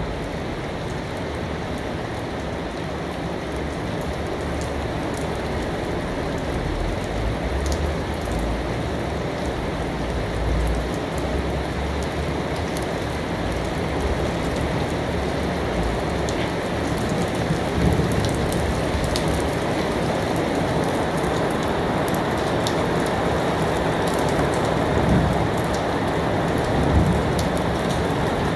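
Steady rain falling, a dense even hiss with scattered sharper drop taps. A low rumble sits underneath in the first half.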